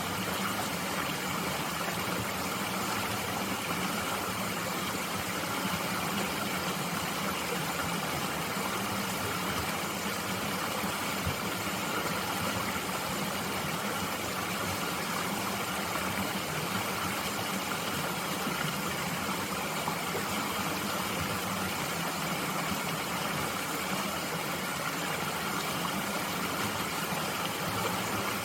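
Mountain stream flowing steadily, an even rushing of water with no breaks or changes.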